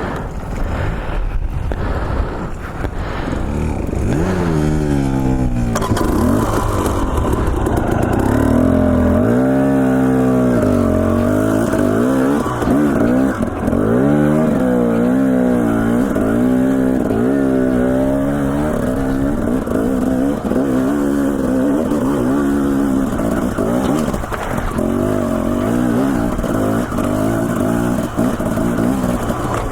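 Dirt bike engine pulling the bike up a trail, its revs climbing sharply about four seconds in and then rising and falling again and again as the throttle is worked, before settling to a steadier pull.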